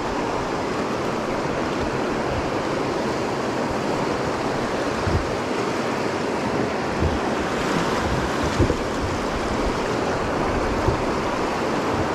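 River water rushing through a rocky shoal, a steady noise, with a few short low knocks about halfway through and near the end.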